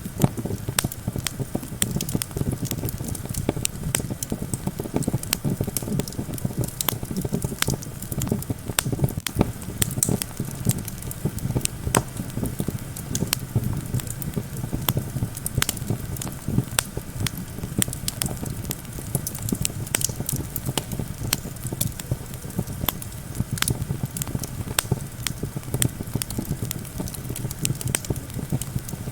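Campfire crackling, with many sharp irregular pops and snaps over a steady low rumble of wind.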